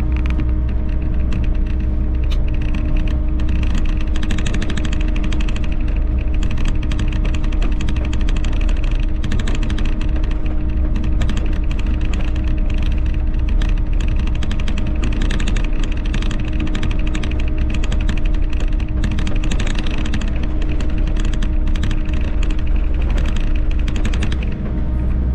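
Volvo EC60E mini excavator working, its engine a steady drone under a rapid, dense clatter of machinery and stone.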